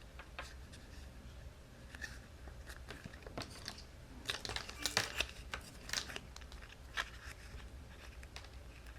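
Cardstock and paper pieces being handled and pressed together, with light crinkling rustles and small clicks and taps, busiest around the middle.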